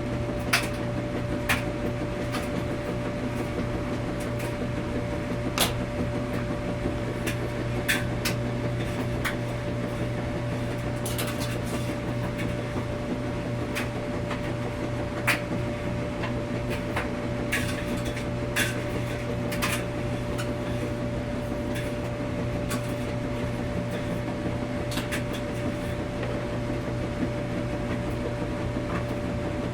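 Laundromat washing machine running: a steady machine hum with a low drone and a higher steady tone, and scattered sharp clicks and knocks.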